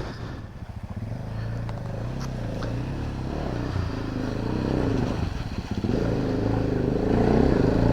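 Adventure motorcycle engine running at low revs, slowly growing louder toward the end.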